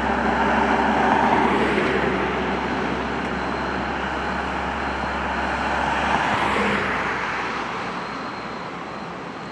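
Heavy road vehicles passing on a highway: a low engine drone with tyre and road noise, swelling about a second in and again around six seconds, then fading away near the end.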